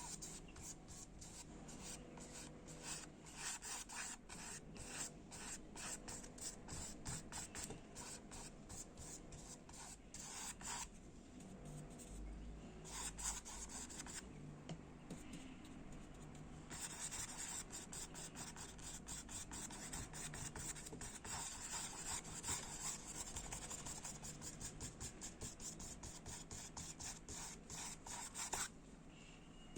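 Quick, scratchy rubbing strokes of an art tool across the painting surface: runs of rapid strokes with short pauses, then a long near-continuous run that stops shortly before the end.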